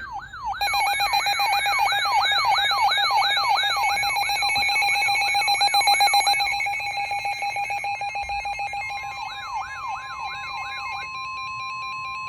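Electronic emergency alert tones: a siren-like pattern of quick falling sweeps, about three a second, over steady beeping tones, fading gradually, then a single steady alarm tone from about nine seconds in, the attention signal that precedes a severe thunderstorm warning bulletin.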